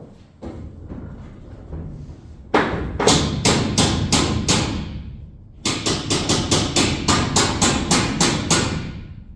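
Hammer blows on the metal roof bracket of a box truck, knocking it back into place: a few light knocks, then two quick runs of sharp strikes at about four a second.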